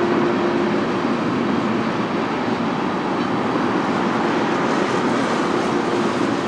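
Freight cars of a BNSF manifest train rolling past: a steady, continuous noise of steel wheels on rail, with a faint steady hum underneath.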